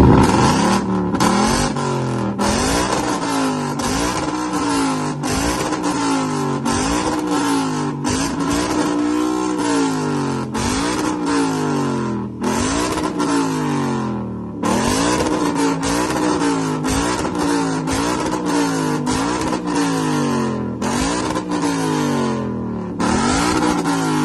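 Car engine revved over and over, its pitch climbing quickly and sinking back about every second and a bit, at a steady loud level.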